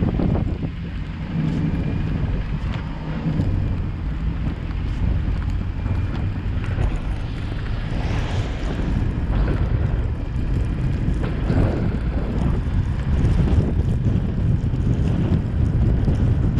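Car driving through a snowstorm: a steady low rumble of engine and tyres on the road with wind noise, growing slightly louder near the end.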